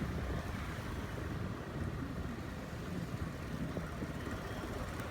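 Motorcycle running on the move, a steady low rumble of engine and road noise.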